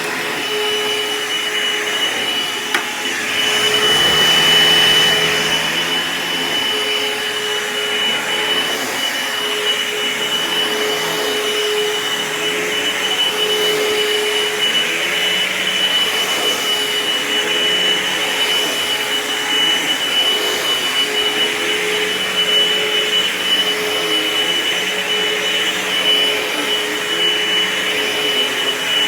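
Dirt Devil Envision Turbo upright vacuum cleaner running at full speed, very loud, with a steady high-pitched whine over the motor's rush of air.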